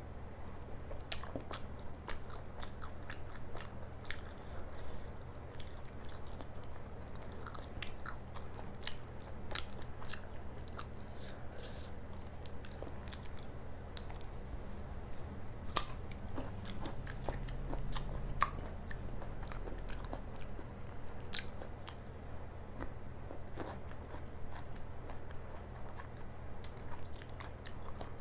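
Close-miked eating: biting and chewing paratha and baby corn, with scattered crunches and sharp wet mouth clicks, over a steady low hum.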